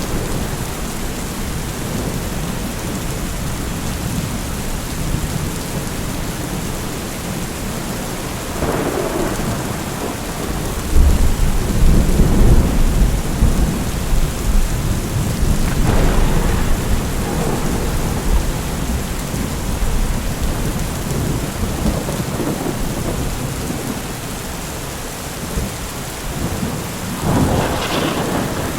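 Steady heavy rain with rolling thunder. A long, deep rumble builds about a third of the way in, and a sharper crackling thunderclap comes near the end.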